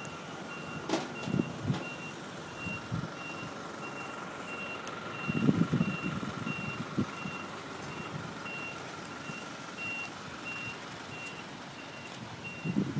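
Vehicle reversing alarm beeping: short high-pitched beeps repeating evenly, about three every two seconds, with some low muffled noise about five seconds in.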